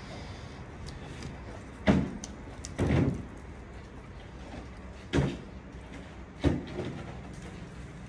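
Eating sounds close to the microphone: four short, loud crunches as raw Chinese cabbage leaves are bitten and chewed, over a steady low background hum.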